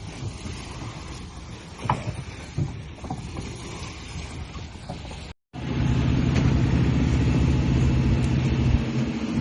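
An engine running: after a brief cut about halfway in, a steady low drone with a fast even pulse, which thins out near the end. Before the cut, irregular knocks and a rumble.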